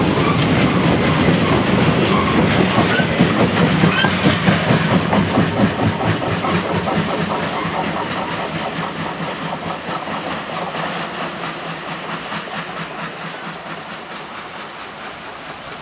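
Freight train of bogie tank wagons rolling past, its wheels clicking rhythmically over the rail joints. The sound fades steadily from about six seconds in as the last wagons draw away.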